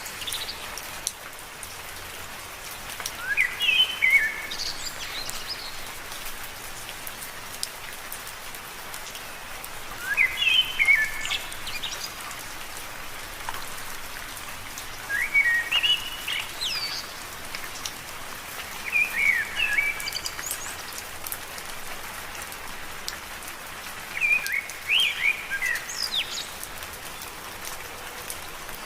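Steady rain falling on leaves, with scattered drips. Every few seconds a bird sings a short phrase of quick, sweeping chirps, about five times over.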